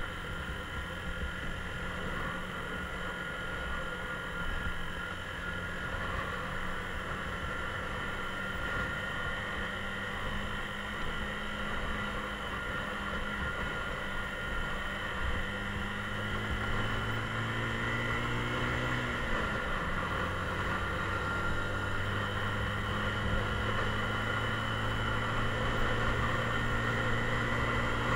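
Mondial Drift 125 motorcycle engine running under way, with a low rumbling noise beneath it. A little past the middle the engine note climbs for about two seconds, then drops suddenly, as at an upshift, and carries on steadily.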